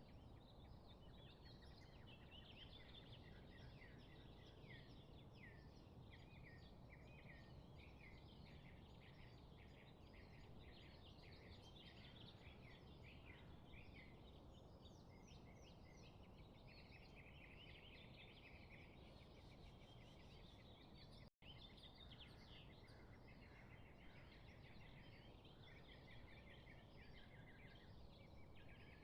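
Many small birds chirping and trilling at once, a dense chorus of short overlapping calls over a faint steady background hiss, with a momentary dropout about two-thirds of the way through.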